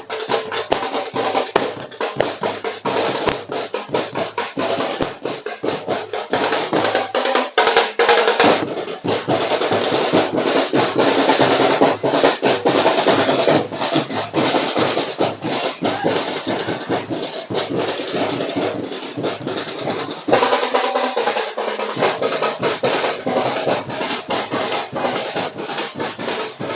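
Street-dance percussion band playing a fast, driving beat of snare and bass drums with drum rolls and sharp wood-block clicks. It swells louder and fuller about a third of the way in and eases back about three quarters of the way through.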